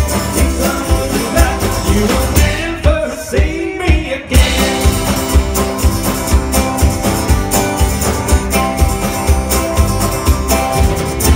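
A band playing an upbeat rock song with a steady kick-drum beat, bass and guitar. About three seconds in the mix thins briefly under gliding notes, then the full band comes back in.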